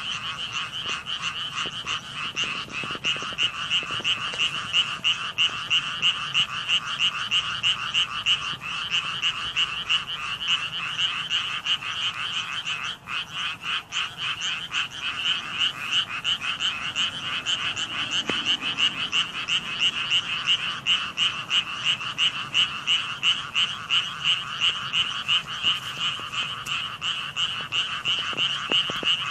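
A dense chorus of many frogs calling, with no break, its loudness pulsing a couple of times a second.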